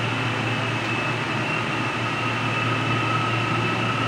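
Inside a moving LRT Line 2 light-rail carriage: the steady running noise of the train on the rails. A thin high whine comes in about two seconds in.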